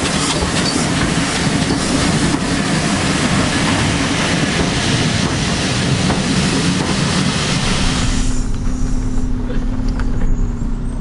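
Railway carriage in motion, heard from inside: a loud rushing rattle of wheels on track with clickety-clack. About eight seconds in, the high rushing part drops away suddenly, leaving a lower steady rumble and hum.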